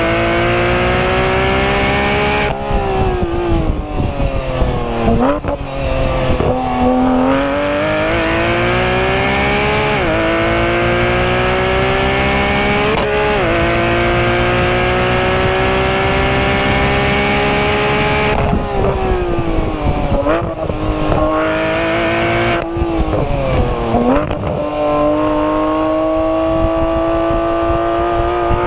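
Porsche 991 GT3 RS's 4.0-litre flat-six at full throttle through the gears: long rising pulls cut by quick upshifts. Twice the pitch drops away under braking, with short sharp blips on the downshifts, before it climbs again.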